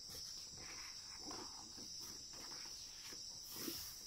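A picture-book page being turned, a short paper rustle near the end, over a faint steady high-pitched drone.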